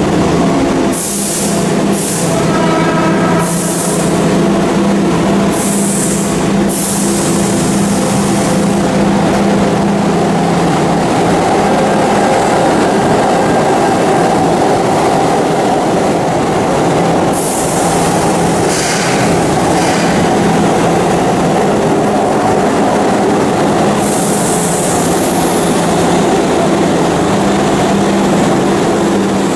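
Keihan electric commuter trains running into and along an underground station platform. The wheels and motors rumble steadily, echoing in the tunnel, broken by several short high-pitched bursts.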